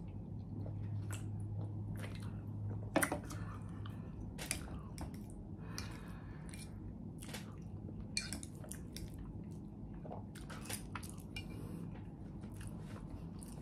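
Close-miked chewing and mouth sounds of someone eating, with scattered irregular clicks and smacks, the sharpest about three seconds in.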